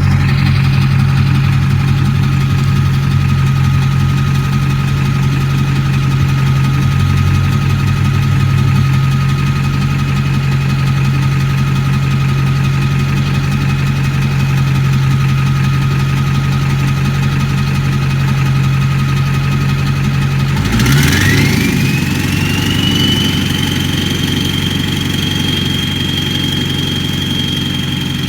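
Ford 7.3 L Power Stroke turbo-diesel V8 idling with a steady turbo whistle. About two-thirds of the way in, the engine speed picks up and the whistle climbs in pitch, then holds steady at the higher note.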